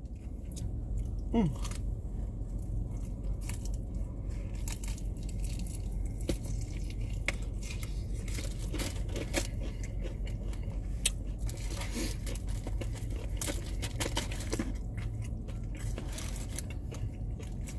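Close-up crunching and chewing of crispy fried chicken: irregular sharp crunches as the breaded skin is bitten and chewed, over a steady low hum.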